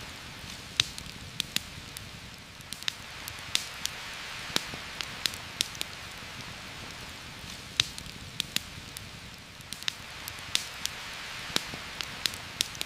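Steady heavy rain hissing down through a forest canopy, with irregular sharp pops and ticks about once or twice a second.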